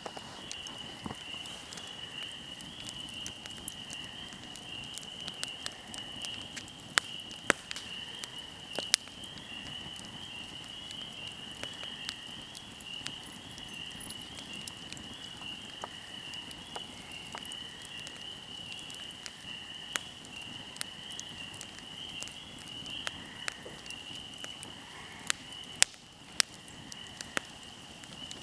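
Wood campfire crackling, with scattered sharp pops, a few of them loud. Behind it runs a steady high-pitched trilling night chorus.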